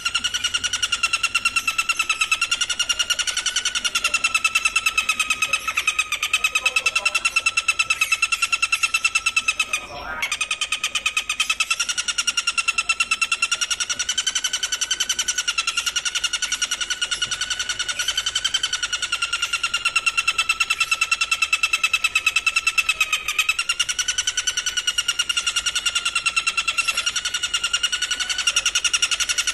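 A singing insect's continuous, rapidly pulsing trill on a steady buzzing pitch with overtones, breaking off briefly about ten seconds in before carrying on.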